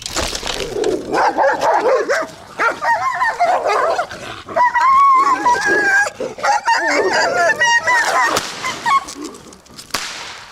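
Several dogs barking and giving high, wavering cries in a fight, with no let-up until near the end.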